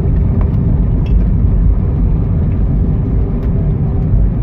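Cabin noise inside an Airbus A320 on the ground after landing: a steady low rumble from the idling engines and the rolling aircraft, with a constant hum and a few faint clicks.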